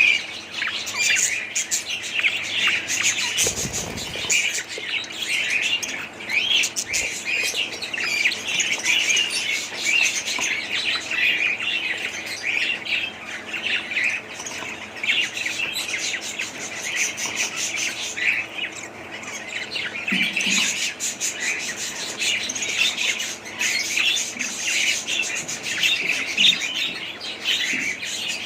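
Several budgerigars chirping and chattering continuously, with many quick overlapping high calls and an occasional harsher squawk.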